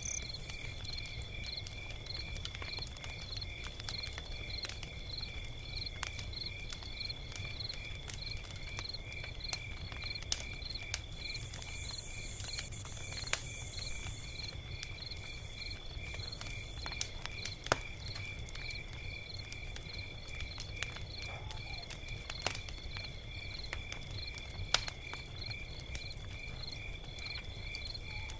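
Log fire crackling with scattered sharp pops over a low, steady rumble, with a brief hiss about twelve seconds in. Behind it runs a steady, evenly pulsing high chirping.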